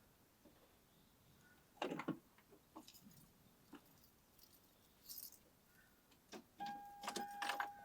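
Faint scattered clinks and rattles of small hard objects being handled. About a second before the end, a steady electronic beep tone starts over them.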